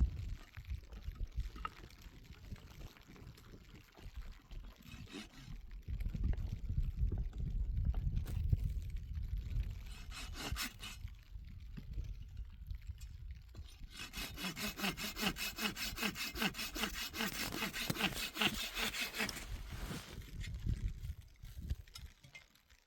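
Hand saw cutting through a piece of firewood in fast, regular strokes. The sawing is loudest for about five seconds in the second half, with low rubbing and handling noise before it.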